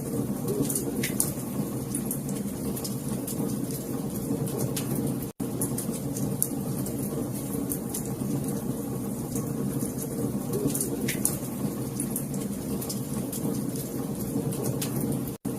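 Wood fire crackling: a steady low rush of burning with scattered sharp snaps and pops. The sound cuts out for an instant twice, about five seconds in and near the end.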